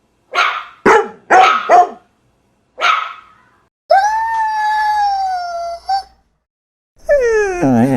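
Dog barking five times in quick succession, then a long, slightly falling howl, and near the end a howl that slides steeply down in pitch.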